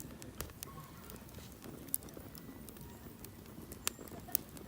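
Wood campfire crackling: irregular sharp pops and snaps of burning wood, a few louder than the rest, over a low, steady rumble.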